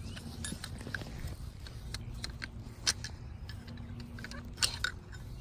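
Scattered light metallic clicks and clinks of hand tools and suspension parts being worked, with two sharper clicks about three seconds and nearly five seconds in.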